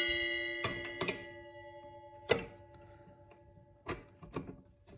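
A metal part of a RYOBI 10-inch table saw, the blade guard assembly being locked in, clanks and rings with a metallic tone that fades over about three seconds. Several light clicks and knocks of handled metal parts follow about a second in, at two and a half seconds and near four seconds.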